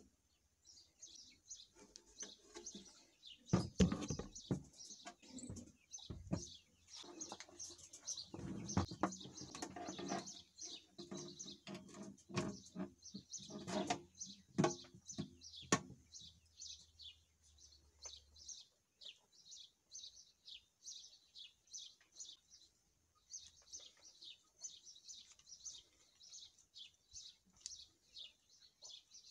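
Small birds chirping over and over in the background. Through the first half come knocks and rustles of a metal-sprung air hose and brass fittings being handled against a compressor's metal case, the loudest about 4 s in and again from about 8 to 16 s.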